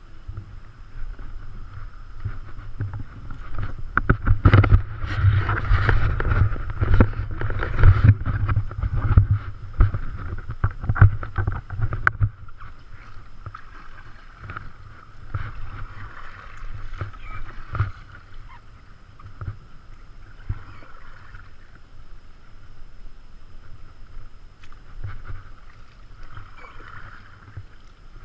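Kayak on moving river water: paddle splashes and sharp knocks over a steady rush of water and a low rumble, busiest between about four and twelve seconds in, then calmer.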